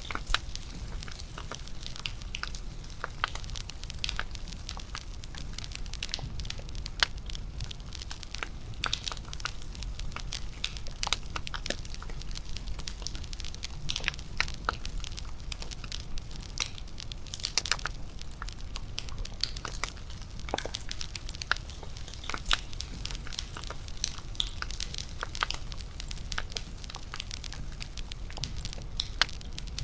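Bonfire crackling steadily: irregular snaps and pops over a low rumble.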